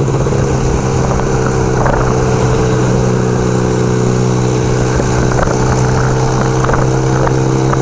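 1975 Kawasaki KZ400 parallel-twin motorcycle engine running at a steady speed under way, its pitch holding even, with constant wind rush.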